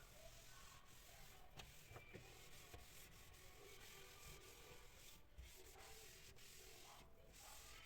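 Near silence, with faint rubbing and a few light ticks.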